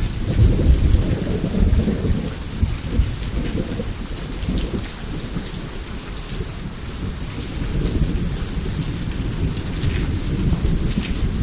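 Heavy rain falling steadily under a long, low roll of thunder. The rumble swells sharply right at the start, eases off midway and builds again near the end.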